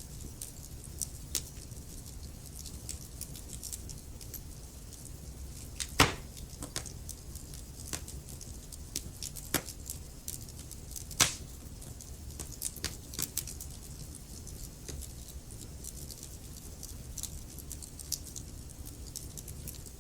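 Wood fire crackling in a fireplace: scattered small snaps and crackles over a low steady rumble, with two louder pops about 6 and 11 seconds in.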